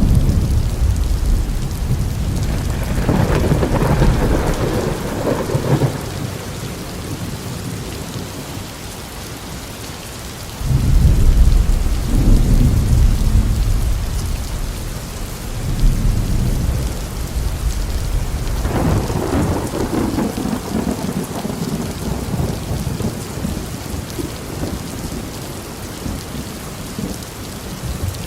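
Steady heavy rain with thunder rolling through it several times. The loudest peal breaks in suddenly about ten seconds in, and another crackling roll follows near the middle of the stretch.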